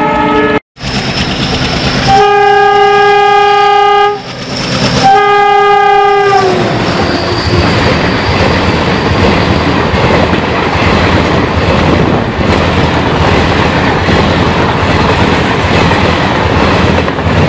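Train horn: two long blasts about a second apart, the second sagging in pitch as it dies away. Then the steady rush and wheel clatter of a passenger train running past close by.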